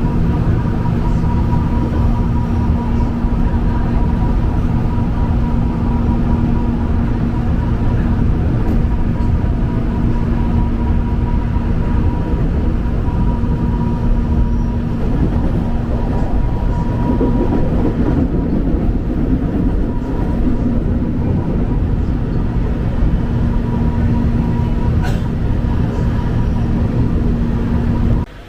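KRL Commuterline electric commuter train running, heard from inside: a loud, steady rumble with a constant hum, which cuts off suddenly near the end.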